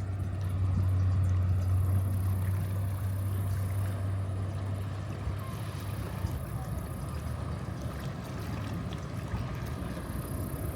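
Ferry's engine drone, a steady low hum that fades out about halfway through, over a continuous low rumble.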